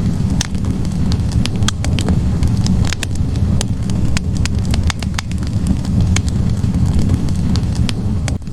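Wood fire burning in a fireplace: logs crackling and popping with many irregular sharp snaps, several a second, over a steady low rumble of flames.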